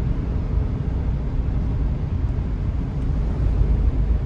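Steady low rumble of a car being driven, heard from inside the cabin: engine and tyre noise with no sudden events.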